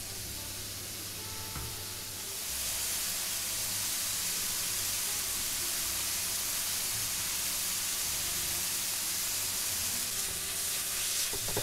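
Sliced onions and peppers sizzling as they sauté in a wok, a steady hiss that grows louder about two and a half seconds in and then holds.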